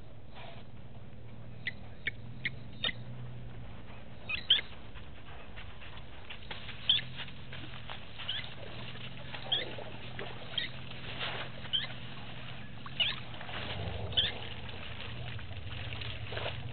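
Birds chirping around a waterhole: about a dozen short, sharp, high chirps at irregular intervals, some dropping in pitch, over a steady low hum.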